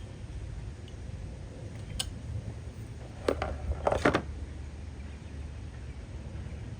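Ignition coil packs being handled and pushed down onto the spark plugs: a sharp click about two seconds in, then a short cluster of clicks and knocks of plastic on the engine a second or so later, over a low steady rumble.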